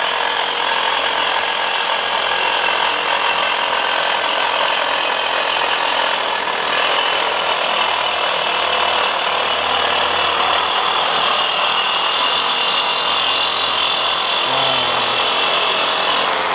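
Power saw running steadily as it cuts through stock held in its built-in clamp, feeding itself with no pressure needed from the user. It stops abruptly at the end of the cut.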